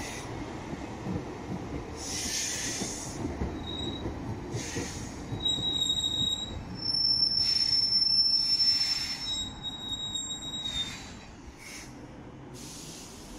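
Roslagsbanan electric light-rail train rolling along the platform into a station: a low rumble with high-pitched wheel squeal in several steady tones from about four seconds in, loudest around eight seconds. It dies away near the end as the train comes to a stop.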